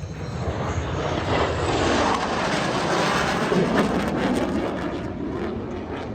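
A fighter jet's engine rushing past in a flyby, swelling to its loudest about two to four seconds in and then fading away, with a falling sweep in pitch as it goes by.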